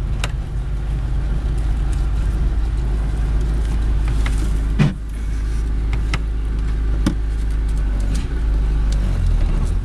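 Fiat 600's rear-mounted four-cylinder engine running as the car drives at low speed, heard from inside the cabin. A few sharp clicks and rattles sound over the steady drone, with a louder knock about five seconds in.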